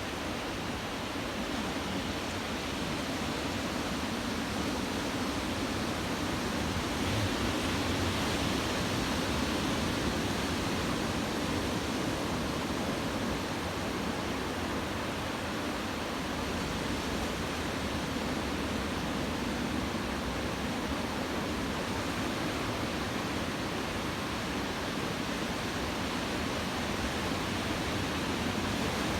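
Steady noise of ocean surf breaking, swelling slightly about seven seconds in, with typhoon-driven waves at shoulder to head height.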